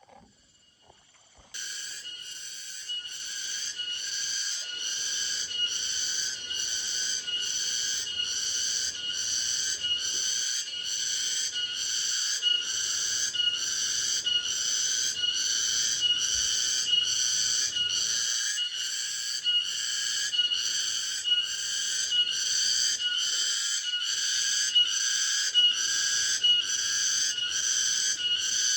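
Cicada calling: a shrill, pitched song that starts suddenly about a second and a half in, then pulses in a steady rhythm of a little over one pulse a second.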